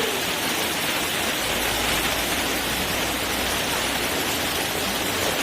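Steady rushing of a mountain stream's flowing water, with a low rumble joining in for a few seconds in the middle.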